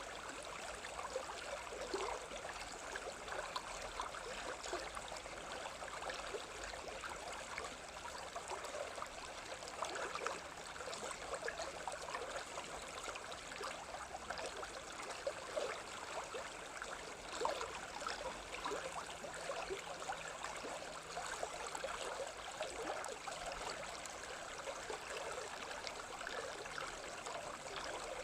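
Stream water babbling steadily, with many small splashes and gurgles.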